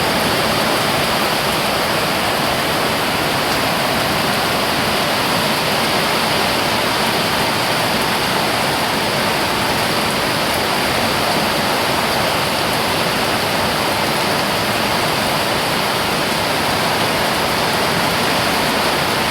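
Heavy rain pouring down steadily, a dense even hiss with no let-up or gusts.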